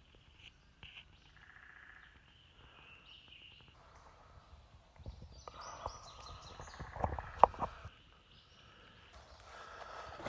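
Woodland birds calling and singing: a short trill, a held whistled note, then a run of higher stepped notes. A few sharp clicks come about seven seconds in, and a rustle of leaf litter near the end.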